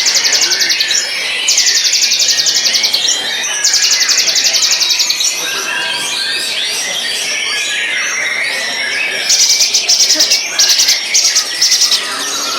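White-rumped shama singing: a continuous, varied song of quick whistled and chattering phrases, broken by rapid high trills lasting about a second each that recur several times, most thickly in the last few seconds.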